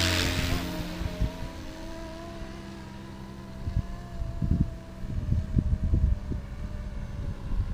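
470-size electric RC scale helicopter in flight: a steady whine from its motor and rotors that drifts slowly lower in pitch. Irregular low buffeting bursts come in from about halfway through.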